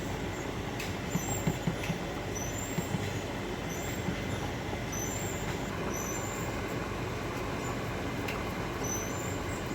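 Chicken kebabs frying in olive oil in a pan: a steady sizzle over a low rumble, with faint scattered crackles.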